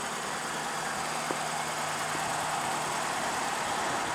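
Steady noise of traffic on a busy main road, with one small click about a second in.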